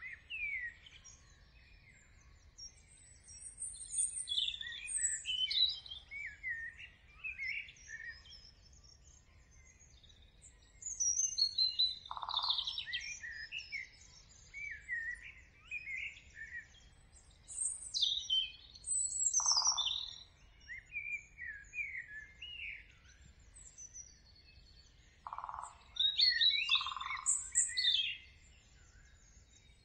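Several songbirds singing and chirping, with overlapping high chirps and trills that come in clusters with short pauses between. A lower, short note sounds four times in the second half.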